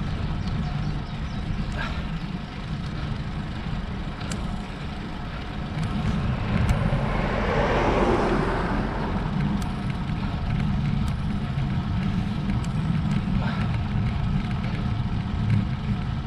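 A motor vehicle passes, its noise swelling and then fading about halfway through, over a steady low rumble of wind and road noise from riding a road bike.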